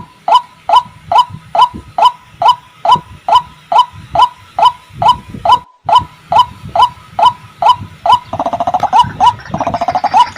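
White-breasted waterhen calling: a steady run of loud, short rising 'ruak' notes, about two to three a second, with a brief break just past halfway. Near the end a second, busier stream of calls overlaps it.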